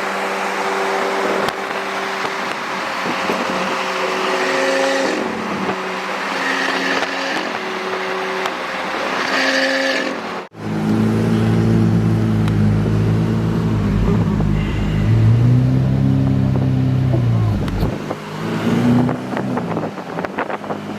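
Car engine heard while driving, its note stepping up and down in pitch. About halfway through it cuts abruptly to a louder, deeper engine note that rises and falls, as in a rev or a pull.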